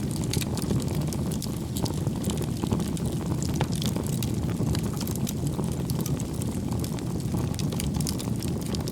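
Wood fire burning: many small irregular crackles and pops over a steady low rumble of the flames.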